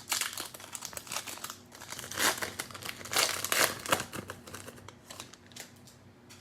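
Cellophane wrapper of a Panini Mosaic football cello pack being crinkled and handled, in bursts that die away near the end.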